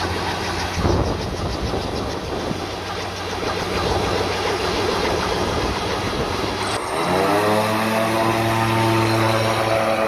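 Engine of a homemade helicopter built from old car parts and scrap, running with a rough clatter. About seven seconds in, the sound changes abruptly to the engine revving up and then holding a steady pitch.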